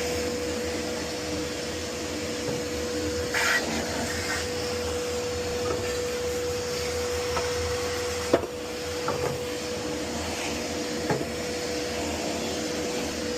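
An electric motor running steadily, with a constant hum and an even hiss. A few short knocks sound over it, the sharpest a little after the middle.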